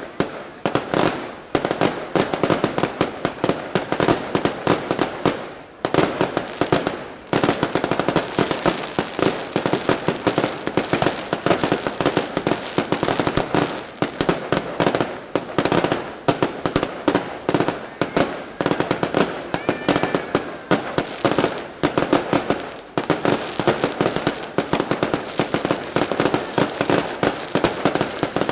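Daylight fireworks barrage: a dense volley of firecracker bangs, many a second, with a brief easing about six seconds in.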